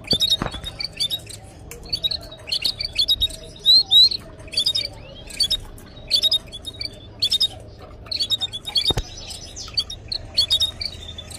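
Canaries chirping in quick clusters of short, high notes, with a few upward-sliding calls about four seconds in. Two sharp clicks are heard, one near the start and one near the end.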